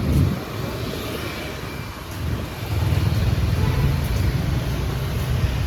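Motor vehicle engine rumbling. It eases off after the first half-second and grows louder again a little under three seconds in.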